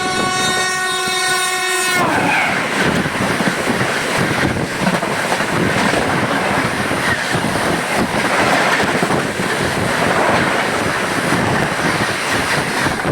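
Train horn sounding one steady note that cuts off sharply about two seconds in. It is followed by the loud, steady rumble and clatter of the moving train's wheels on the rails.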